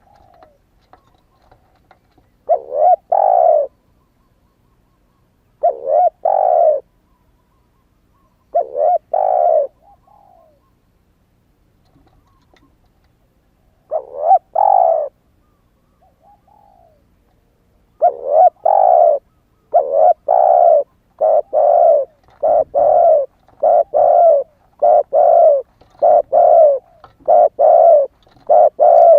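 Spotted dove cooing, a young male just coming into call: separate two-part coos every few seconds, then a quick run of coos about one a second from around two-thirds of the way in.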